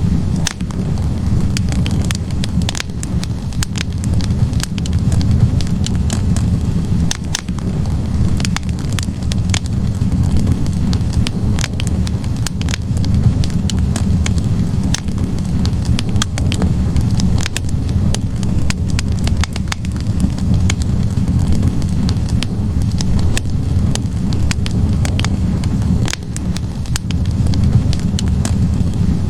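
Wood fire burning in a fireplace: logs crackling, with frequent sharp pops over a steady low rumble.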